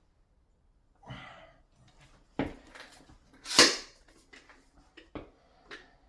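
Hand work on hard parts: a rustling scrape, a sharp click, then a louder hissing scrape about three and a half seconds in, followed by a few lighter clicks and knocks.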